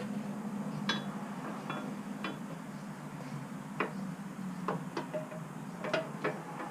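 Light metal clicks and clinks of tools and bolts as a motorcycle support bracket is fitted, about eight scattered taps over a faint steady hum.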